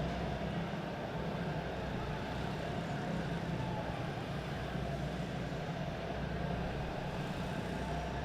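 Quarter midget race cars' small engines running with a steady, even drone, without revving up or down.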